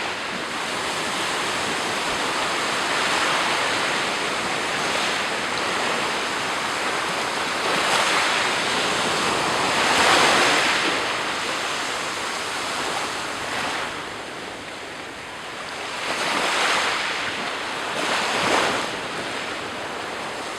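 Black Sea surf: waves breaking and washing onto the shore, each break a swell of rushing noise every few seconds, the loudest about ten seconds in.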